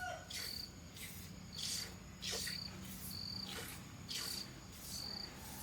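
Cricket chirping faintly: short, high chirps repeating at an even pace, a little more than once a second.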